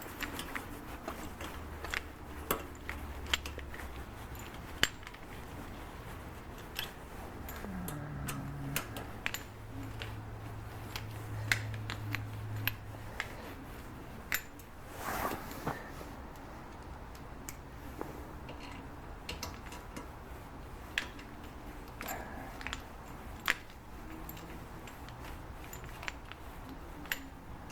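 Scattered small metallic clicks and taps of an Allen key and screws being worked into a bolt-on aluminium exhaust tip, over a faint steady low hum.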